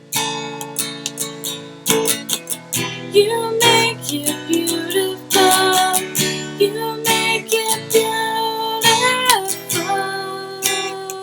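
Acoustic guitar strummed in a steady rhythm, playing a slow song, with held and sliding melody notes over the chords.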